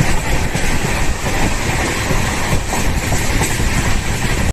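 Poorva Express passenger train running on the line, a steady rumble of wheels on rails with some clickety-clack.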